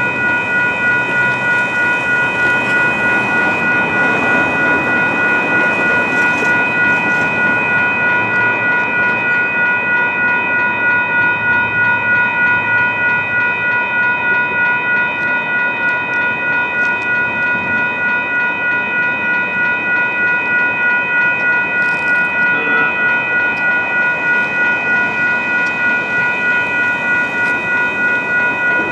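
Grade-crossing warning bell ringing continuously in even, rapidly repeated strokes, several pitches layered into one ring: the crossing signal is active, warning of an approaching train.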